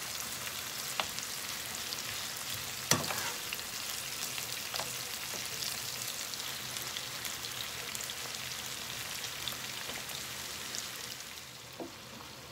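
Pork spare ribs sizzling as they fry in a pan, stirred now and then. A few sharp knocks of a utensil against the pan can be heard, the loudest about three seconds in. The sizzle fades near the end.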